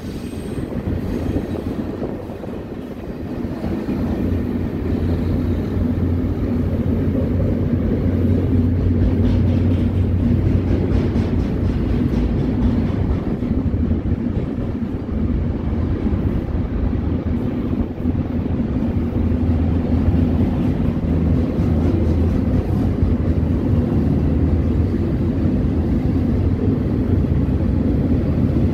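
Double-stacked intermodal freight train rolling past: a steady rumble of wheels on rail that grows louder a few seconds in.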